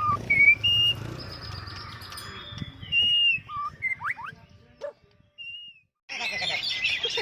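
Oriental magpie-robins (kacer) singing: separate clear whistled notes, some falling in pitch, with a couple of quick rising sweeps. After a brief gap, a loud, dense run of rapid chattering song starts near the end.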